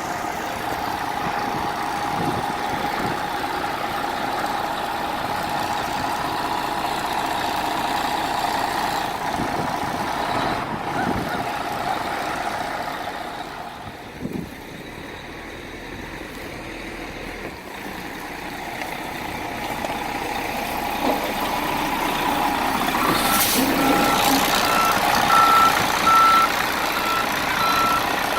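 Diesel engine of an MCI D4500 coach running steadily with a held whine, easing off in the middle, then building again. Near the end the coach's reversing beeper starts sounding a steady on-off beep, and a short hiss of air comes with it.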